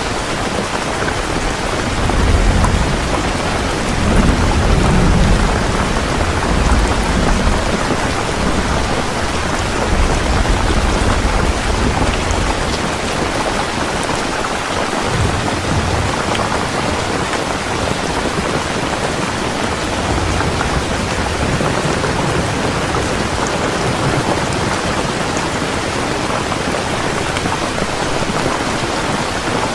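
Heavy rain pouring steadily, with a low rumble of thunder rolling through the first half.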